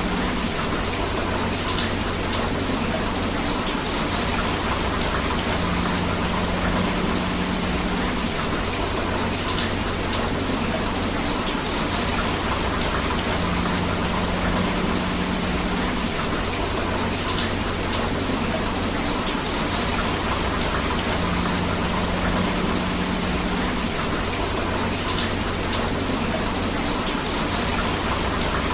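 Steady heavy rain mixed with flowing river water, a dense even rushing hiss with no breaks.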